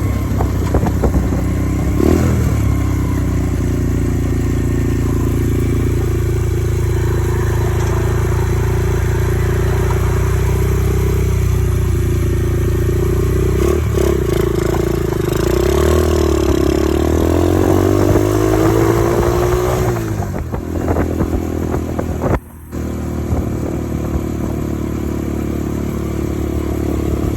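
Dirt bike engine running while riding, its pitch holding steady, then dipping and climbing as the throttle is worked before it drops back off. The whole sound cuts out for a split second a few seconds before the end.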